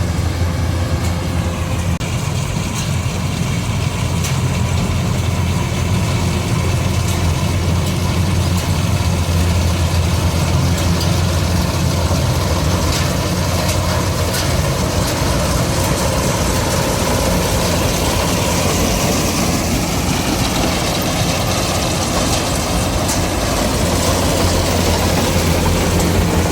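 Combine harvester's engine running steadily, with a deep hum and a constant mechanical clatter over it.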